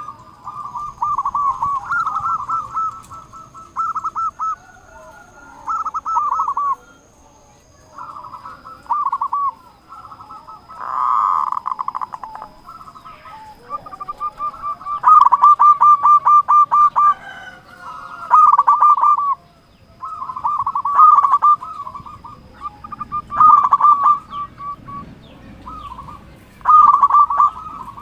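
Zebra dove (perkutut) singing: repeated phrases of fast rolling coos, each a second or two long, with short pauses between.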